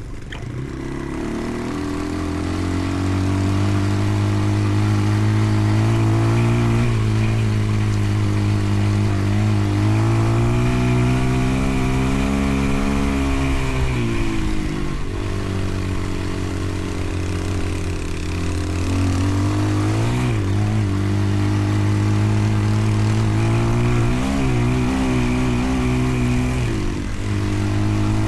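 Motorcycle engine running on the move, its pitch climbing and dropping with throttle and gear changes several times, over a steady hiss.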